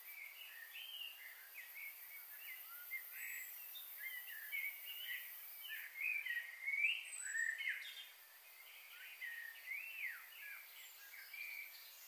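Birds chirping: a busy chorus of short, quick chirps and twitters, busiest about halfway through, over a steady high hiss.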